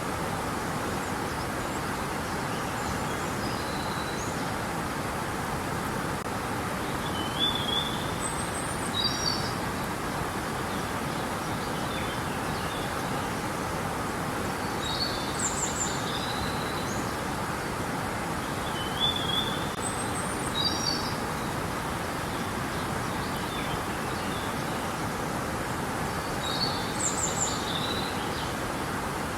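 River water rushing steadily, with a songbird calling over it in short high chirping phrases that recur every several seconds.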